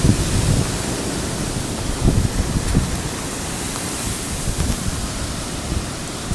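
Steady rushing noise of hurricane wind and rain, with a couple of brief low gusts buffeting the microphone about two seconds in.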